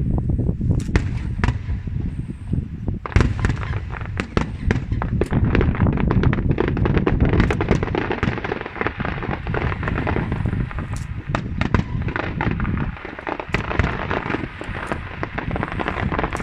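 Aerial fireworks display: shells bursting in rapid succession, a dense, continuous run of bangs and crackles over a steady low roar.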